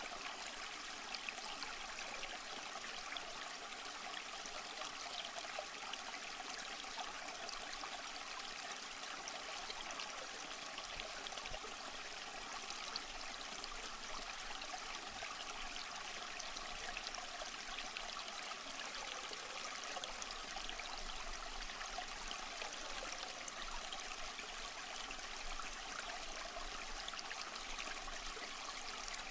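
Small stream flowing and trickling over rocks, a steady babble of water with little splashes.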